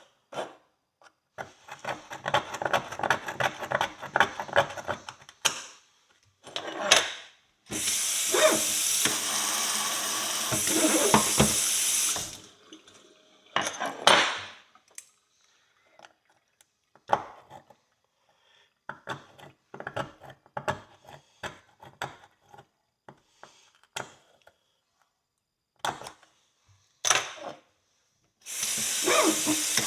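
Kitchen tap running in two spells, about 8 seconds in and again near the end. Between them, metal clinks and scrapes as a rusty horseshoe is picked clean at the sink, with a quick run of rapid scraping clicks early on.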